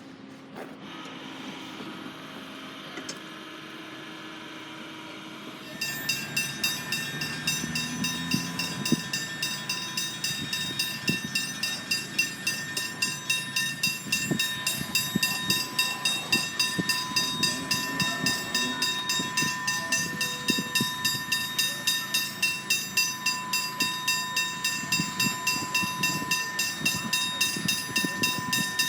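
Level crossing warning bell starts ringing about six seconds in, striking rapidly and evenly, which signals that the crossing has activated for an approaching train. Beneath it a train comes through, its wheels knocking and rumbling over the rails.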